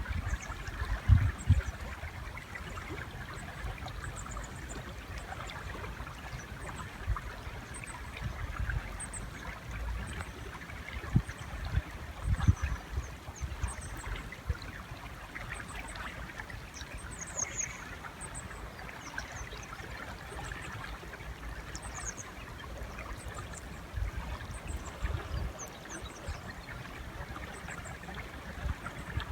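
River water flowing in a steady rush, with many short, very high bird chirps scattered over it. A few low thumps or rumbles stand out, the loudest about a second in and again around the middle.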